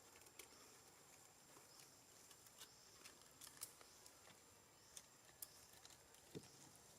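Near silence: a faint outdoor background hiss with scattered light clicks and ticks, seven or eight over several seconds.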